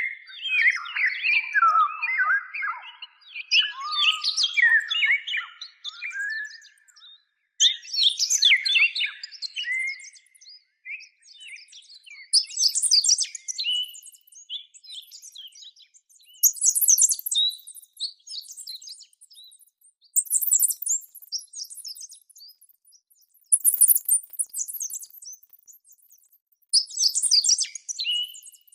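Parrot chirping and twittering in repeated bursts a few seconds apart, the notes pitched higher after the first several seconds.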